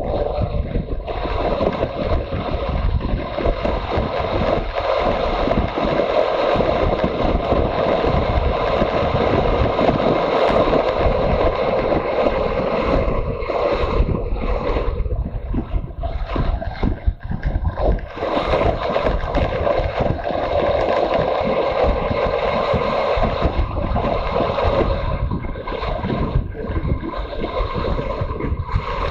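Motorcycle on the move: wind rushing over the microphone, with the engine running underneath. The level dips briefly a few times.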